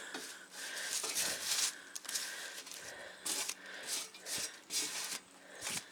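Irregular rustling and tearing as grass and garden debris caught in a lawn mower are pulled and cut free by hand with a knife.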